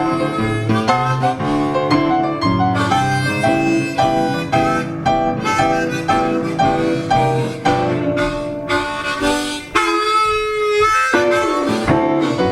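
Jazz-blues band playing an instrumental passage without vocals: piano and guitar accompanying a lead line of quick notes, with a few held notes bent in pitch near the end.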